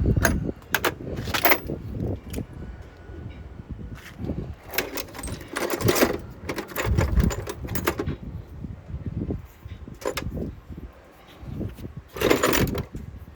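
Metal hand tools such as sockets and ratchets clinking and rattling against each other as they are rummaged through and picked out, in irregular bursts with louder clusters about five seconds in and near the end.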